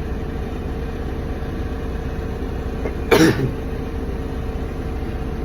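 Forklift engine idling steadily, with one short cough about three seconds in.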